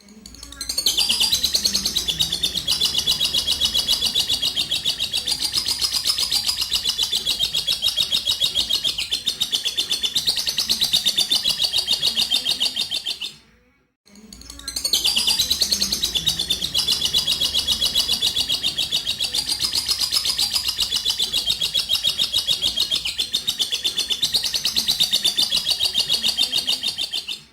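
Lovebird's 'ngekek': a long, fast chattering trill of high notes, the extended song prized in champion lovebirds. It comes in two long bouts of about thirteen seconds each, with a brief break halfway through.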